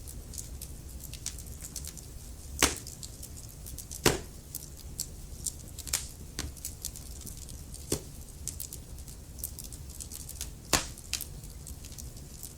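Wood fire crackling in a fireplace: many small, sharp crackles over a low, steady rumble of flame, with three louder pops, the loudest about four seconds in.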